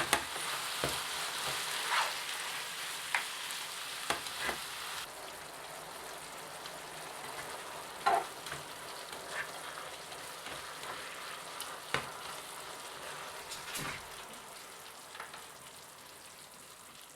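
Pork, paprika and green onions sizzling in hot oil in a frying pan while being stirred, with scattered scrapes and clicks of the spatula against the pan. The sizzle slowly dies down toward the end.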